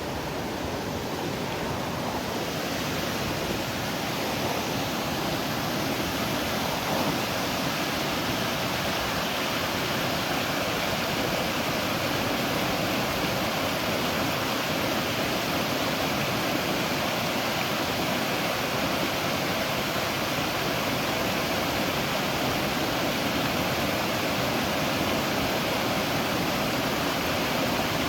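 Waterfall rushing steadily, a constant even roar of falling water that swells a little over the first few seconds and then holds.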